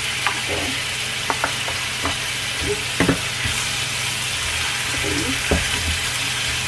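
Chopped shallots and garlic sizzling in hot oil in a frying pan, with a steady hiss, while a wooden spatula stirs them, scraping and tapping against the pan now and then.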